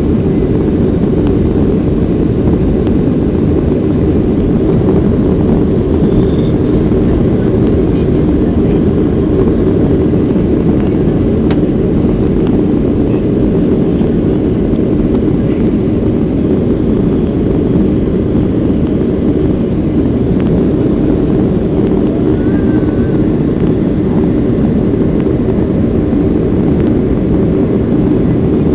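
Boeing 737-800 jet engines and airflow during takeoff or climb: a loud, steady, deep rumble that does not change.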